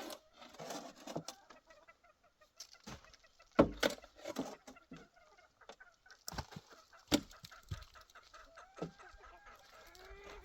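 Chickens clucking with short, scattered calls. A few sharp knocks cut in, the loudest two about a third and two thirds of the way through.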